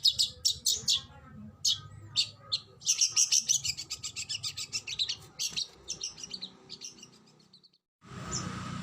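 Oriental magpie-robin (kacer) singing fast runs of sharp, repeated high notes, densest a few seconds in, then thinning and fading. Near the end the recording cuts to a noisier one with a steady hum under a few more notes.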